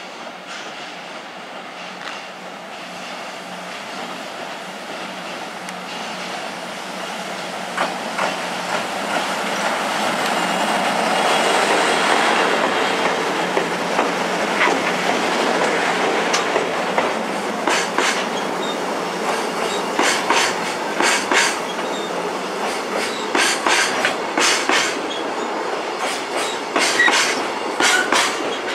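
Freight train's loaded container flatcars rolling past close by, with a steady rumble of wheels on rail that grows louder. From about halfway on comes an irregular clickety-clack as the wheelsets cross rail joints.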